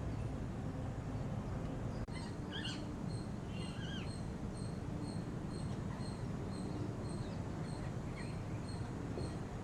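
A few short bird chirps about two to four seconds in and again near the end, over a steady low outdoor rumble, with a faint high ticking repeating about three times a second.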